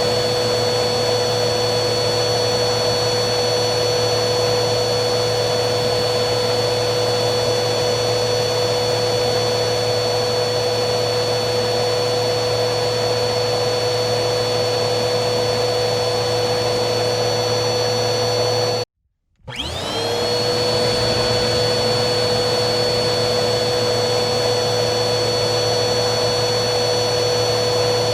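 Vacuum cleaner running with a steady motor whine and airflow rush. About two-thirds of the way through it cuts out abruptly for about half a second, then the motor spins back up to speed with a rising whine.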